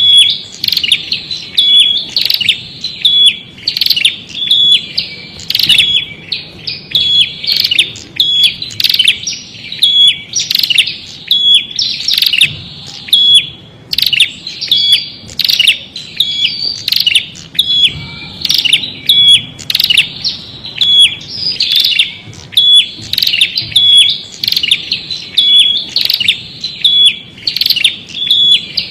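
Prinia (prenjak) singing: short phrases of sharp, high chirps repeated over and over, about once a second, without a break.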